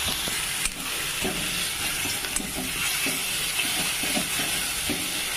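Onion paste and grated tomato sizzling in hot oil in a metal kadai, with a metal spatula scraping and stirring against the pan about twice a second and one sharp knock about a second in.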